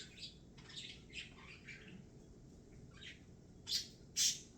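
Pet birds giving a string of short, sharp chirps and squawks, the loudest two near the end.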